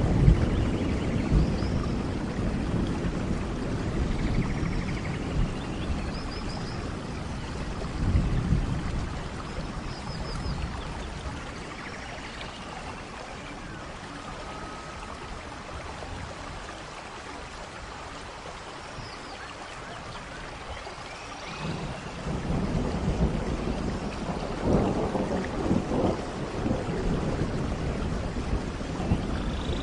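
Steady tropical rain with a low rumble of thunder that fades over the first seconds, drops away in the middle, and swells again about two-thirds of the way through. Birds chirp briefly here and there above the rain.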